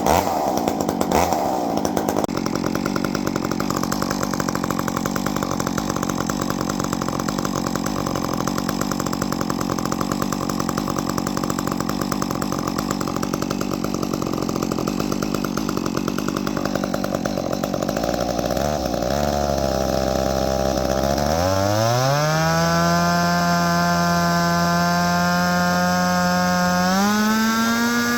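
Stihl MS 261 two-stroke chainsaw running through a handmade prototype muffler with two small outlet ports. It runs steadily at a lower speed, then is revved up about three-quarters of the way in to a high, steady pitch, and climbs once more near the end to a still higher pitch.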